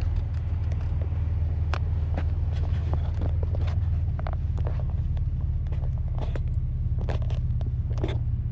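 A vehicle's engine running with a steady low drone, with scattered irregular clicks and ticks over it.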